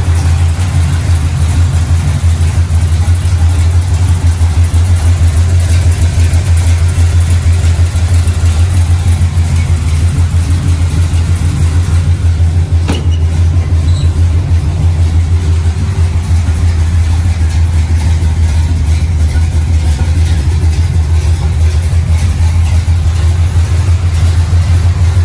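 A 1972 Chevelle's 454 big-block V8, fitted with tube headers, idling steadily with a low, even rumble. A single brief click comes about thirteen seconds in.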